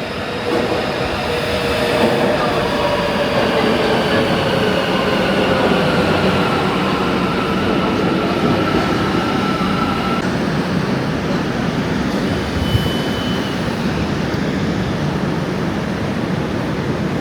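Metro train running, a steady loud rumble with a motor whine that glides slowly down in pitch as the train slows. A short high beep sounds about three-quarters of the way through.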